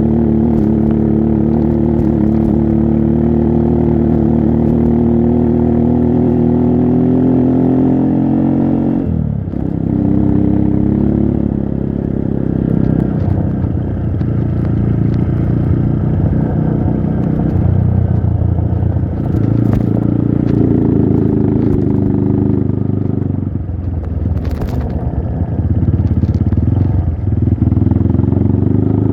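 Trail motorcycle engine running under load, held steady for about nine seconds, then the revs dropping and picking up again several times, with a few sharp knocks over it.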